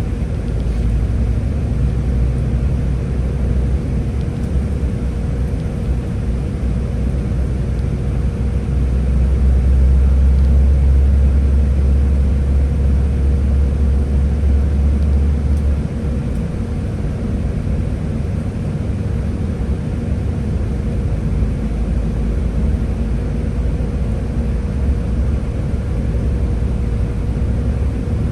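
Scania Higer A30 city bus running: a steady low engine and road rumble that grows heavier about nine seconds in and eases back some seven seconds later, with a faint steady whine.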